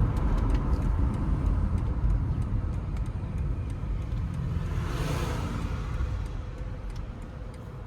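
Car driving: a steady low engine and road rumble, with a brief rush of noise about five seconds in, easing off slightly toward the end.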